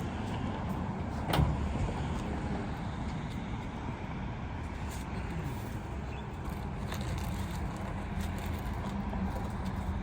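A motor vehicle running with a steady low rumble, and one sharp knock about a second and a half in.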